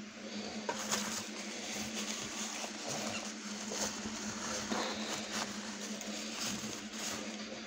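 Close-up chewing of a fried fish sandwich, with many small clicks from the mouth and a steady low hum underneath. A paper napkin rustles about halfway through.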